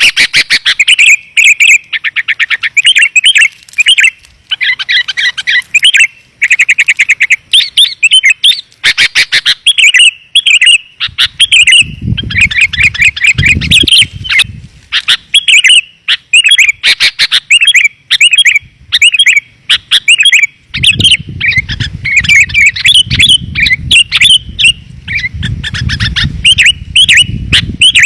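Sooty-headed bulbuls (kutilang) calling in rapid, dense chattering and whistled phrases, a loud lure-call recording. A low rumble runs under the calls for a couple of seconds near the middle and again through the last third.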